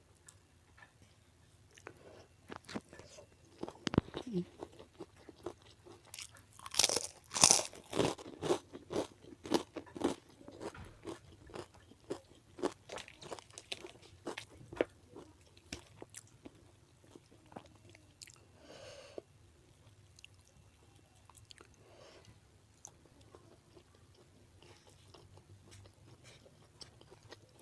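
A person biting and chewing food close to the microphone, with crisp crunches and wet mouth clicks, loudest and densest about a quarter of the way in, then thinning to quieter chewing.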